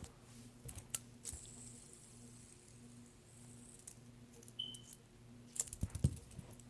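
Quiet handling of a fidget spinner: a few light clicks and taps, scattered, over a faint steady hum.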